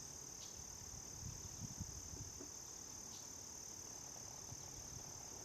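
Crickets chirring in a steady high-pitched trill, with a few faint low thumps about one to two seconds in.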